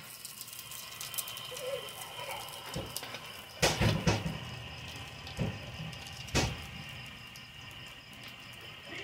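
Okra omelettes sizzling in hot oil in a steel wok, with a metal spatula knocking and scraping against the wok as they are turned: a quick cluster of knocks about four seconds in and single knocks a little later.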